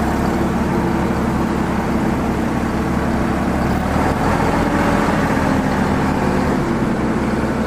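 Massey Ferguson 4608 tractor's diesel engine running steadily, its note shifting slightly about four seconds in.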